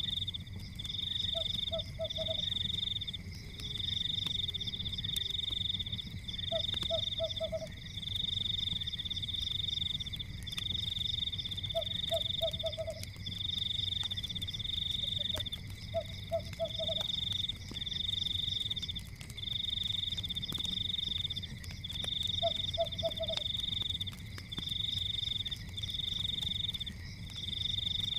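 Night forest chorus of calling frogs: a high pulsed trill repeats in bursts about a second long over a steady high drone, and a low four-pulse croak sounds every few seconds. Scattered faint crackles and a low rumble of a fireplace run beneath.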